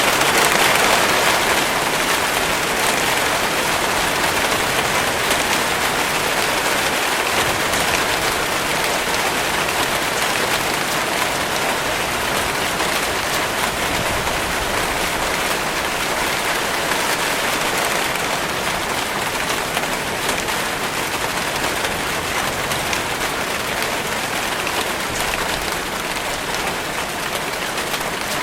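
Steady rainfall pattering on a surface, a dense even hiss of drops with no break.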